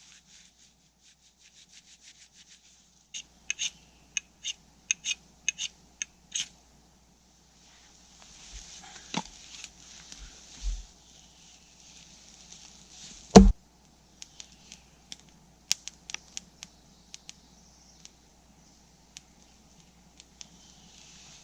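Dry twigs and kindling being snapped and handled to build a campfire: a run of sharp snaps about two a second, rustling, then one loud snap of a thicker stick about two-thirds of the way in, followed by scattered small clicks.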